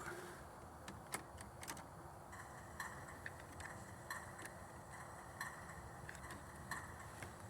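G scale model train rolling along the track, its wheels ticking faintly over the rail joints at uneven intervals, about one or two clicks a second.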